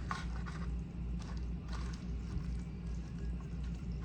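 A person chewing food close to the microphone, with a few soft, wet mouth clicks over a steady low hum.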